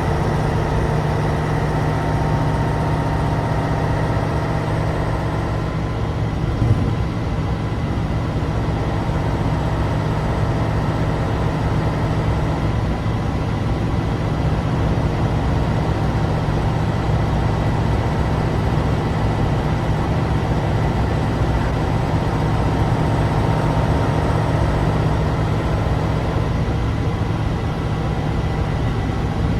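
Air-cooled, naturally aspirated V10 diesel of a 1988 Tatra 815 dump truck running steadily under way, the truck unloaded. A brief knock about seven seconds in.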